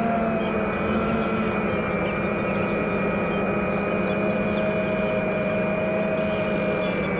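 FPV quadcopter's four brushless motors and tri-blade propellers whining steadily in cruising flight, the pitch drifting gently with throttle.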